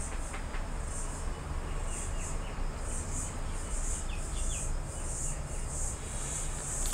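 High-pitched insect chirring that pulses on and off, over a low steady hum.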